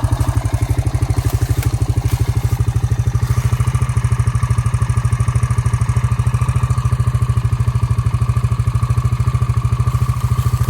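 A 2002 Honda Rancher ES ATV's single-cylinder four-stroke engine idling steadily, with an even, rapid firing pulse; it runs smoothly after its long sit and a carburettor clean.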